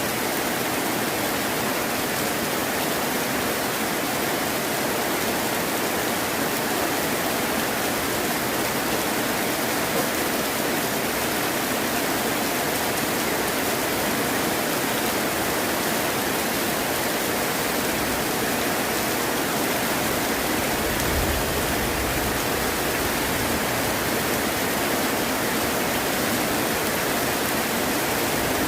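Steady hiss of heavy rain. About three quarters of the way in, a brief low rumble of distant thunder rises under it.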